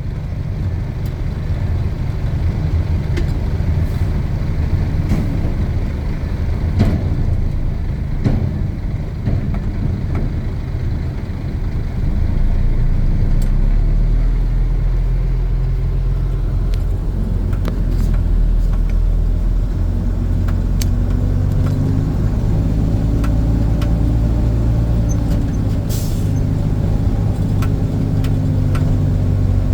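Dump truck's diesel engine running, heard from the cab, with scattered sharp clicks and knocks. About twelve seconds in it gets louder and deeper and stays that way, with the engine speed shifting up and down later on.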